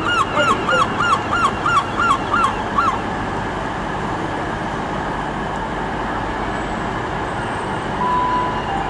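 A bird calling in a rapid series of rising-and-falling notes, about four a second, that stops about three seconds in. After that, a steady low rumble of diesel trains in the station, with a short single-pitch beep near the end.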